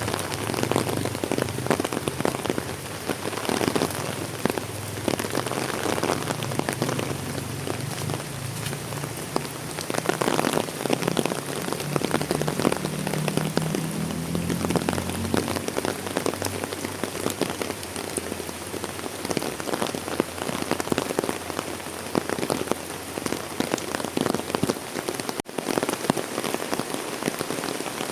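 Heavy rain falling steadily, with a dense patter of drops hitting surfaces close by. A low hum underneath fades out about halfway through.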